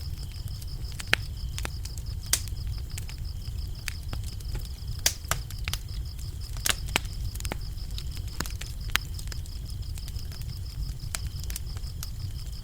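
Wood fire crackling, with scattered sharp pops over a low steady rumble, while crickets chirp in a continuous, rapidly pulsing high trill.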